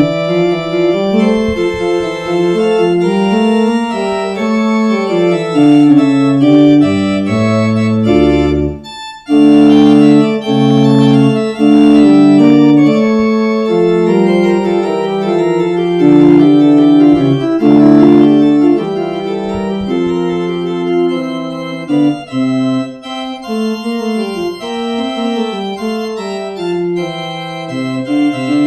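Organ playing a postlude in held, slowly moving chords, with a brief break about nine seconds in.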